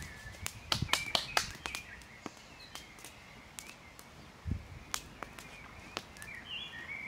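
Campfire wood crackling and snapping in sharp irregular pops, a quick cluster about a second in and then scattered, with a bird chirping in the background.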